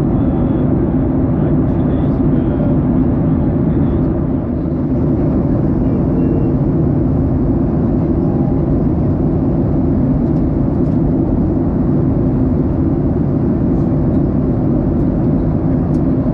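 Steady, loud roar of a jet airliner's engines and airflow heard from inside the passenger cabin, deep and unchanging.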